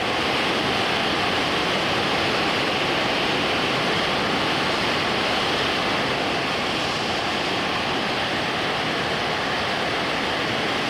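Huka Falls, the cataracts of the Waikato River: a steady, loud rush of fast water pouring through the rapids.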